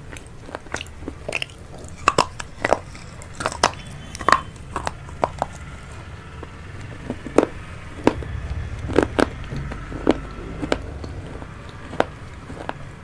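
Close-miked chewing of vegetable chow mein: irregular wet mouth clicks and crunches, coming in quick clusters.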